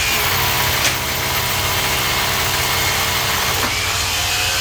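Electric power tool motor spinning up and running steadily at high speed for about four seconds, then winding down, with a sharp click about a second in.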